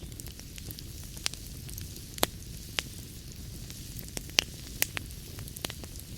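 Wood fire crackling in a fireplace: irregular sharp pops and snaps, a few of them loud, over a low steady rumble of the flames.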